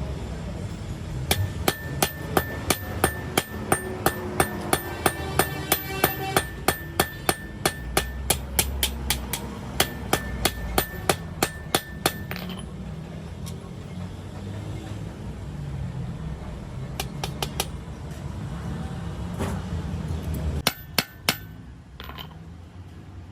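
Hand hammer striking metal in a steady run of about three blows a second for roughly ten seconds, each blow ringing. A few more blows follow later, over a low workshop hum.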